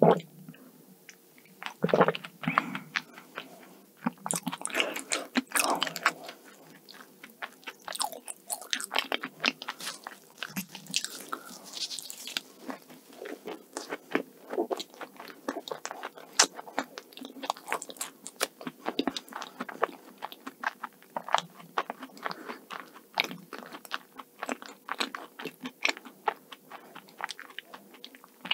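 Close-miked chewing of a mouthful of egg tart, with wet mouth clicks and small crunches of flaky pastry in a quick, uneven stream, busiest in the first half.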